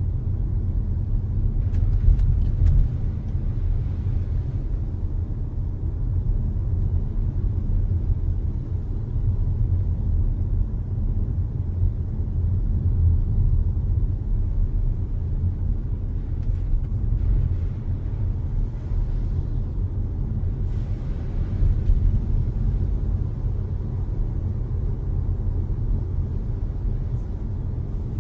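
Steady low rumble of a car driving, with road and engine noise heard from inside the cabin, and a few brief, faint hissy swells over it.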